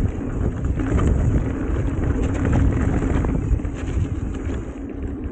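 Mountain bike riding fast down a muddy trail: wind buffeting the camera microphone in a heavy rumble, with tyre noise and scattered clicks and rattles from the bike over the rough ground.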